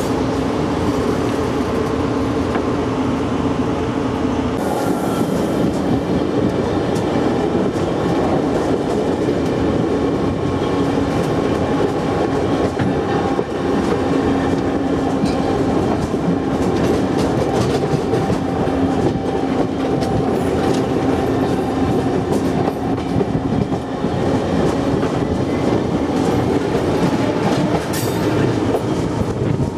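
Locomotive running along the track, heard from its open end platform: a steady drone with wheels clicking over rail joints and points.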